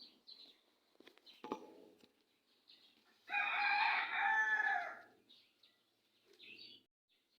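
A rooster crowing once, a long call of about a second and a half near the middle, with small birds chirping faintly around it.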